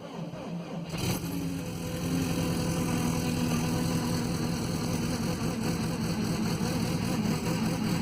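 Volkswagen Vanagon's fuel-injected flat-four engine on a cold start just below zero: cranking slowly, catching about a second in, then running at a steady fast idle.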